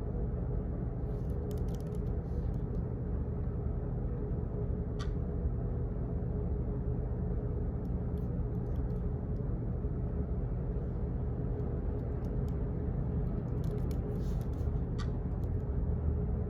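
Steady low hum of office background noise, with faint scattered clicks and taps in small clusters and two sharper single clicks about ten seconds apart.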